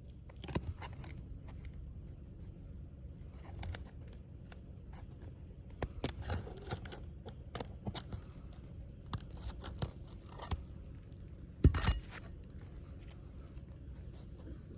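Asphalt shingles being pried up and broken loose from their seal strips, with scattered crackling, tearing and scraping, the loudest crack near the end. The shingles are brittle and the mat is tearing away with the sealant, a sign that they will not reseal.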